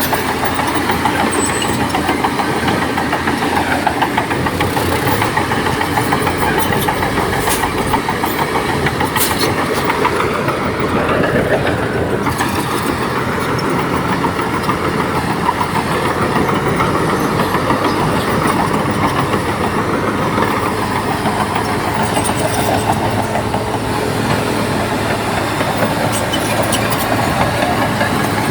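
Bulldozer diesel engine running steadily under load, its pitch rising and falling a little as the machine works.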